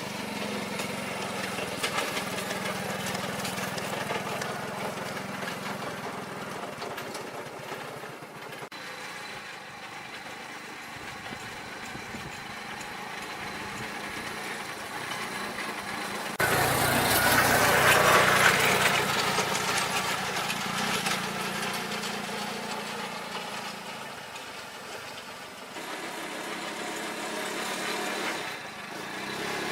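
An engine runs steadily. About halfway through, a louder stretch of noise begins suddenly and fades away over several seconds.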